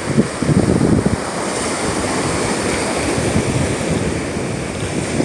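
Rough Gulf of Mexico surf washing onto the beach in a steady rush, with wind buffeting the microphone in gusts of low rumble, strongest in the first second.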